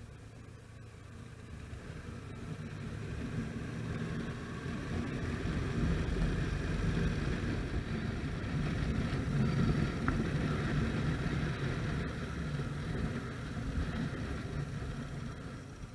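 A vehicle engine running, growing louder over the first six seconds or so, holding, then fading away near the end.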